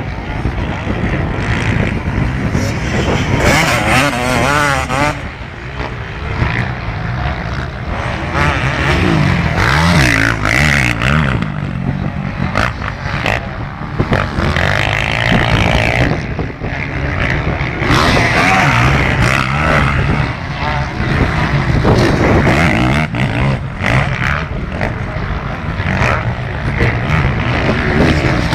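Motocross bikes racing, several engines revving up and down over and over as they accelerate and shift.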